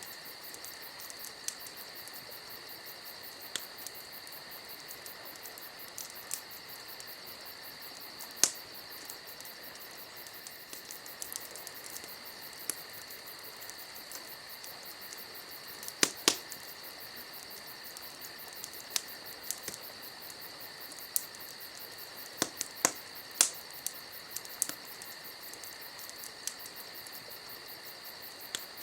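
Campfire crackling, with scattered sharp pops, the loudest about sixteen seconds in and a quick cluster a few seconds before the end, over a steady high chirring of crickets.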